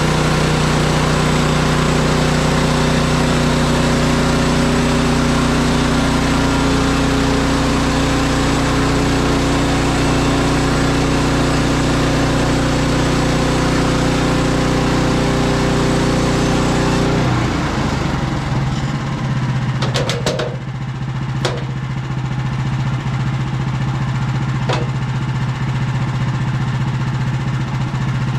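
Woodland Mills HM130MAX band sawmill with its gas engine running hard, the band blade sawing through a spruce log. About two-thirds of the way through, the engine drops to a lower steady idle as the cut ends, and a few sharp knocks follow.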